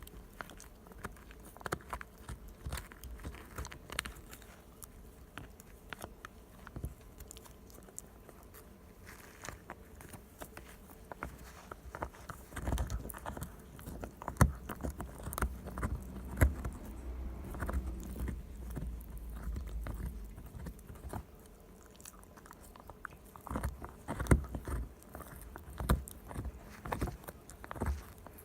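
Shiba Inu gnawing and crunching a cow hoof chew: irregular sharp cracks and chomps, busiest in the middle and again near the end.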